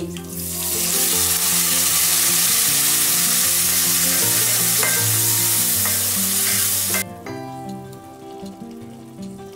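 Ground tomato-onion paste frying in hot oil: a loud, steady sizzle that builds over the first second and cuts off suddenly about seven seconds in, with soft background music underneath.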